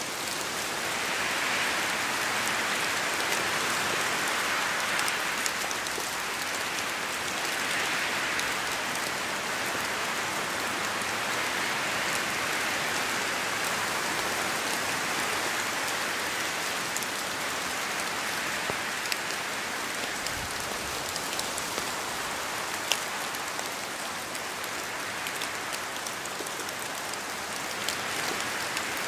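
Steady rain falling on surfaces, with scattered drop ticks, slowly swelling and easing in strength.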